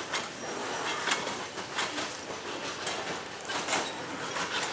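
Slow-moving freight train rolling along the track, the cars giving irregular clicks and rattles over a steady rushing noise.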